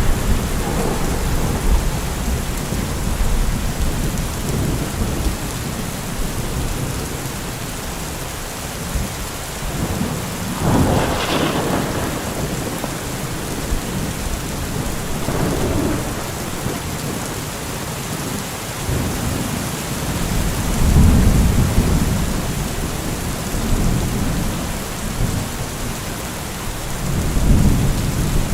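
Steady rain with rolling thunder. A sharper thunderclap comes about a third of the way in, and deep rumbles swell later and again near the end.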